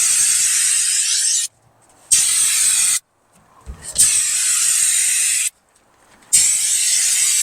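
Turbo Can aerosol spray can of bed liner coating spraying in four bursts of steady hiss, each about a second to a second and a half long, with short pauses between them; the last cuts off sharply at the end.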